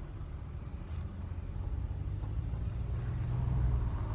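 Ram pickup truck running, heard from inside the cab: a low steady engine and road rumble that swells slightly about three seconds in.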